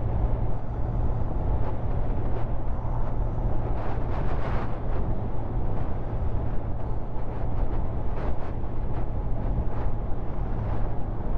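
Motorcycle engine running at a steady cruise with wind rushing over the rider's microphone, a constant low drone under a broad rush of noise.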